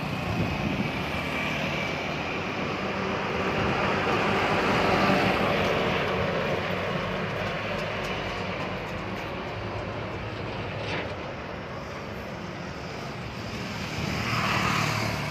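A vehicle running with a steady rushing noise and low hum, swelling about five seconds in and again near the end, with one brief click in between.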